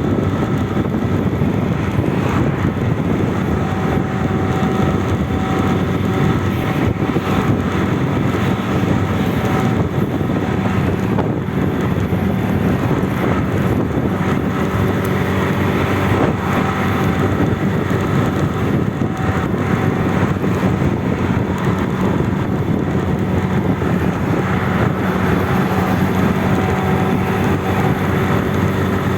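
Airliner on its landing approach: a steady engine drone with a few faint tones running through it.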